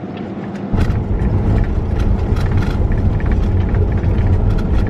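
Van driving on a gravel road: a loud, steady low rumble with a scatter of crackling ticks from the tyres on loose stones, starting abruptly about a second in.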